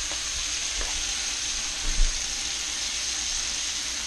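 Pork chops and string beans sizzling in butter and olive oil in a cast-iron skillet, a steady frying hiss. A brief low thump about two seconds in.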